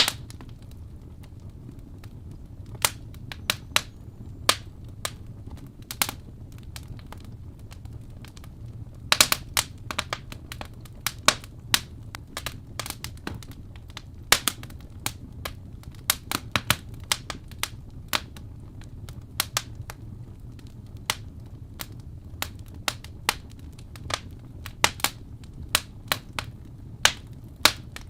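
Wood fire crackling in a fireplace: irregular sharp pops and snaps over a steady low rumble, with a quick cluster of pops about nine seconds in.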